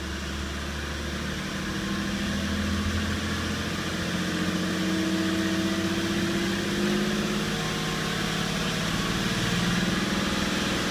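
BMW 525d E60's straight-six common-rail diesel engine, heard from inside the cabin, being revved up from idle with the car stationary. The revs climb over the first few seconds and then hold at around 2000 rpm, the raised engine speed used to check that the DPF back-pressure sensor reading rises with revs.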